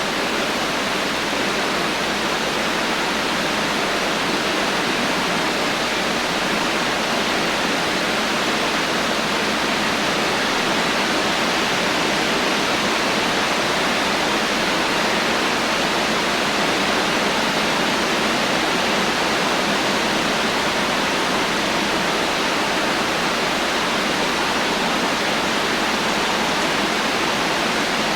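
Heavy rain falling as a steady, dense hiss with no thunder.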